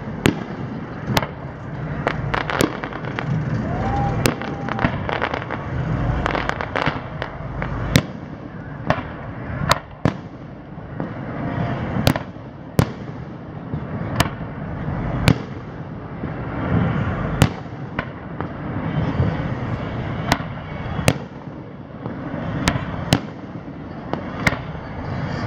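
Aerial fireworks shells bursting in sharp bangs, one every second or two, over a steady background noise.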